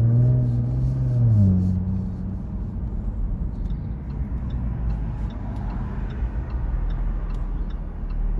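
Jaguar F-Type P380's 3-litre supercharged V6 engine running under way, its note held high at first and then dropping about one and a half seconds in to a steadier, lower running sound.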